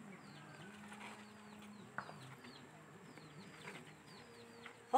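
Faint chirping of small birds: many short, quick chirps that fall in pitch, repeating throughout. A single sharp click about two seconds in.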